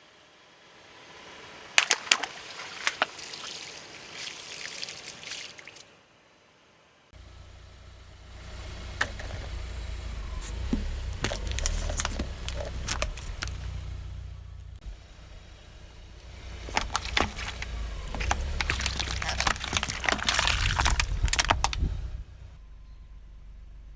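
A car rolling slowly over brittle objects, crushing them with a long run of crackling and snapping. A low engine rumble comes in about seven seconds in. The crackling comes in three bursts and stops suddenly near the end.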